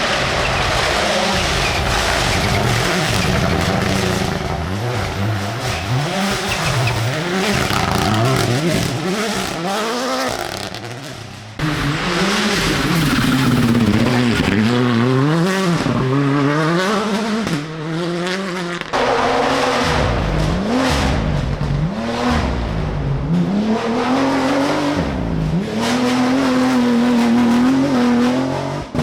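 Rally cars driven hard, engines revving up and dropping back over and over through gear changes and lifts off the throttle. The engine note switches suddenly twice, as one car gives way to another.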